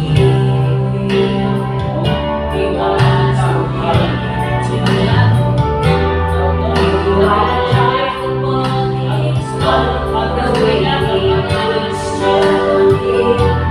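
Music with singing: a voice sings over an instrumental backing with steady held bass notes.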